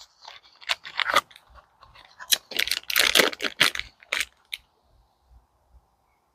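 Plastic parts packaging crinkling and tearing in a quick run of crackles as a sensor is unwrapped. The crackles stop a little over four seconds in, leaving a faint steady hum.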